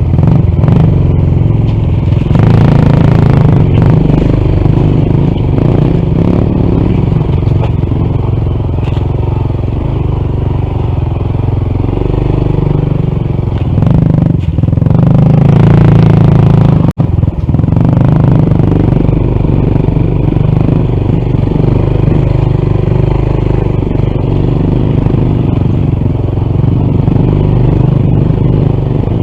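Honda CT125's single-cylinder four-stroke engine running under load on a steep dirt climb, picking up revs about two seconds in and again around the middle.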